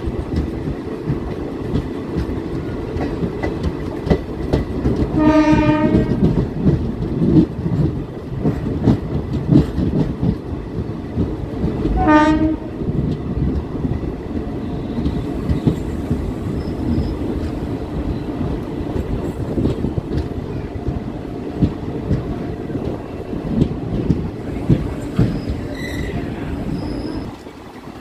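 Passenger train running along the track, with a steady rumble and the wheels clattering over rail joints. The train horn sounds twice, each blast about a second long: once about five seconds in and again about twelve seconds in.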